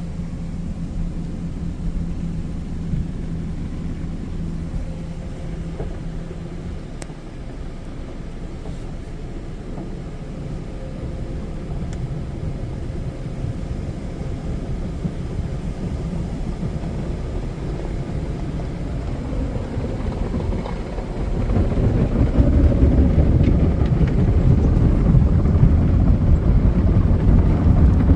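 Tunnel car wash equipment heard from inside the car: a steady low rumble that becomes much louder about three quarters of the way through, as the wash equipment reaches the car.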